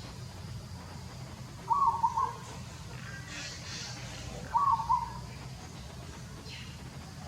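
A bird calling: a short call of a few quick notes, about half a second long, repeated twice about three seconds apart.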